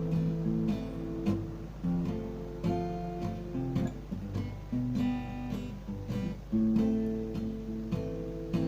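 Yamaha F310 acoustic steel-string guitar strummed in a steady rhythm, chord changes between sung verses with no voice.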